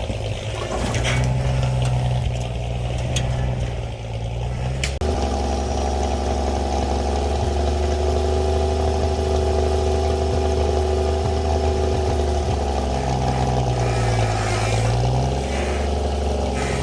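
Winch truck's engine running, its note changing abruptly about five seconds in, then holding steady with a brief dip in pitch shortly before the end.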